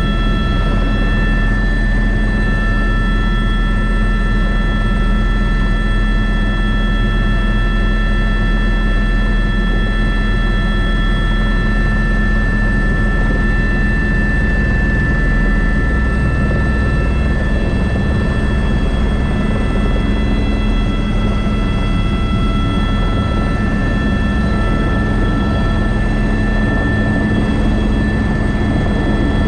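Airbus AS350 B3 (H125) helicopter running steadily, its single turboshaft engine and gearbox whining over the low rotor noise.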